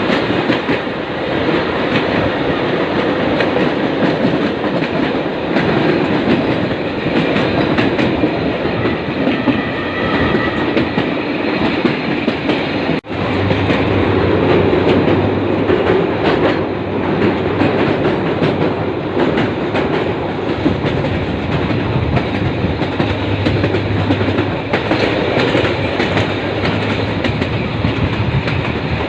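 Egyptian suburban passenger train running at speed, a continuous rumble and rattle of wheels on the rails with faint clicks. The sound cuts out for an instant about 13 seconds in, and a low steady hum joins it from then on.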